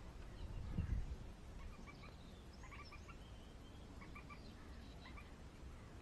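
Faint garden ambience with a few distant bird chirps, short notes in little groups of two or three, and a low rumble about a second in.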